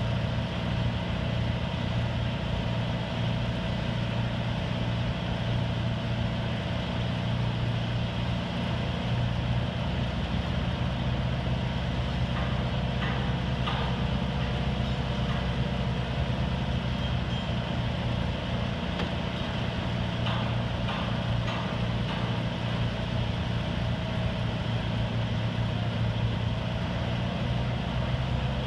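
American Hoist & Derrick 9530 crane's Detroit Diesel engine running steadily, with a few faint metallic knocks about halfway through and again about two-thirds through.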